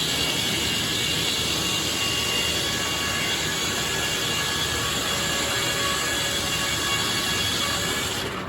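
Circular sawmill with an inserted-tooth saw blade running: a steady mechanical drone with a faint high whine, easing off near the end.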